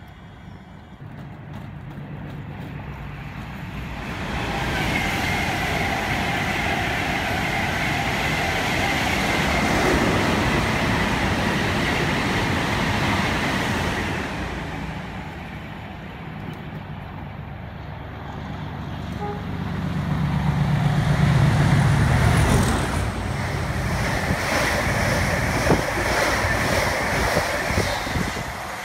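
Electric passenger trains running through stations one after another, wheel and rail noise with a steady high electric whine. The whine fades around the middle, a louder low rumble follows as a train rushes past, and near the end a Class 345 electric unit passes at speed.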